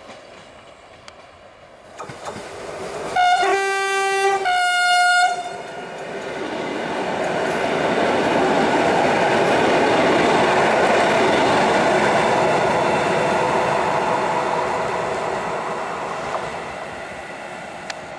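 EN57 electric multiple unit sounding its horn in two blasts about three seconds in, a lower note and then a higher one. It then passes at speed, the rumble of wheels on rail swelling to a peak and fading away.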